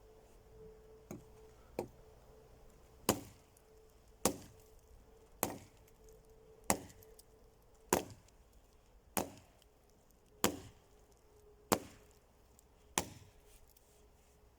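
Wood being chopped with an axe or hatchet: about eleven sharp, evenly paced strikes, one every second or so.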